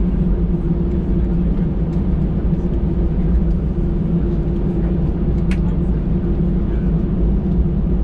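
Airbus A319 cabin noise while taxiing after landing: a steady, even rumble with a constant low engine hum, heard from inside the cabin. A faint click sounds about five and a half seconds in.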